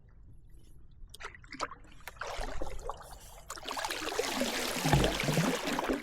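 Kayak paddle strokes: water splashing and dripping off the blades, faint at first and turning into a loud rush of splashing about halfway through.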